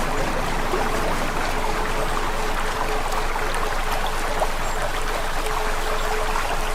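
Campfire crackling steadily, a dense run of small sharp pops and snaps over the hiss of the burning wood, with a faint steady hum underneath.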